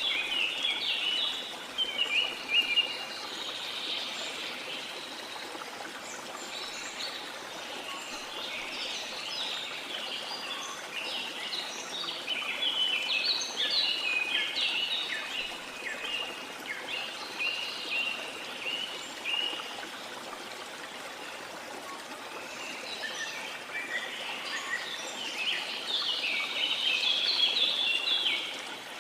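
Tropical forest birds chirping and singing in dense, overlapping phrases over a steady hiss of falling water from a waterfall. The birdsong swells near the start, in the middle and near the end.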